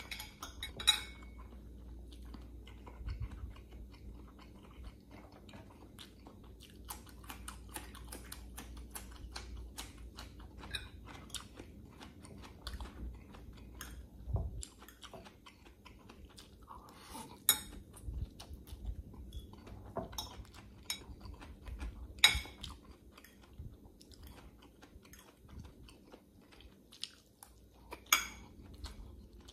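Close-up chewing of instant pancit canton noodles with vegetables: a steady run of small wet mouth clicks. A few sharp clinks of a metal fork against the glass bowl stand out, four of them louder than the rest.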